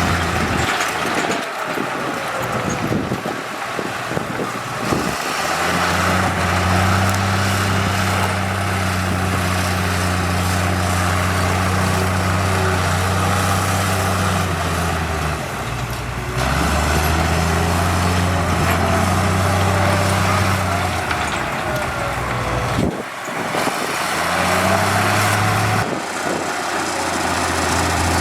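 Heavy diesel construction machinery running, a steady low engine drone with rattling and grinding over it. The engine note drops and shifts abruptly a couple of times.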